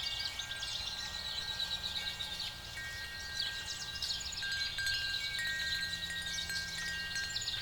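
Fantasy night-forest ambience: dense, steady insect chirring with soft, held chime-like tones that come and go every second or two, over a faint low hum.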